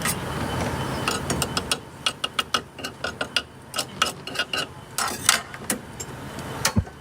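A run of sharp clicks and knocks at an uneven pace, thickest through the middle, with one more knock near the end.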